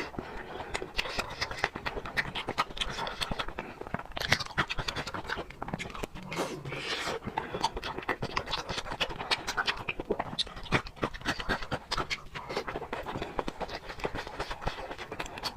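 Close-miked eating sounds: a person chewing with a dense run of small wet clicks and smacks, with a couple of louder noisy slurps or crunches about four and seven seconds in.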